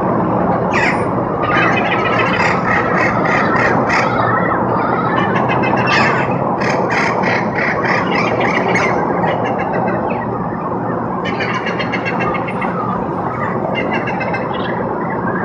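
A flock of wild parrots squawking and warbling in clusters of quick repeated calls, over a steady rumble of passing traffic.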